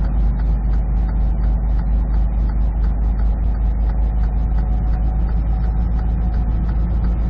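Semi truck's diesel engine running with a steady low drone inside the cab, over a quick, even ticking from the truck's hazard flashers, which are really loud.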